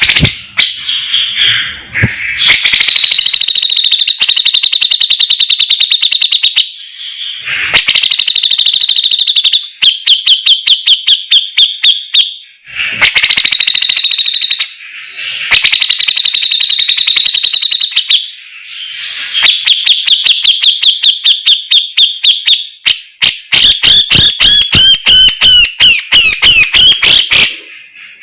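Cucak jenggot (Javan grey-cheeked bulbul) singing loudly: fast strings of repeated high, chattering notes in runs of a few seconds, broken by short pauses. Near the end comes a quicker warbling run with sweeping notes.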